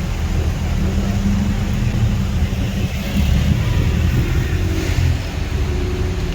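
Road traffic on a wet road: a steady low rumble, with tyre hiss swelling as a vehicle passes about three to five seconds in.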